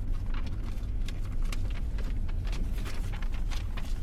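Steady low road rumble of an electric Tesla Model S driving on a wet mountain road, scattered with irregular light ticks.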